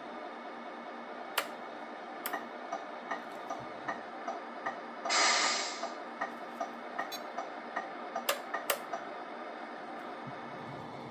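Tamiya Scania 770S RC truck's MFC-03 sound unit putting out a steady simulated diesel engine hum, with scattered sharp clicks and ticks. About five seconds in comes one short hiss of air, under a second long, like an air-brake release.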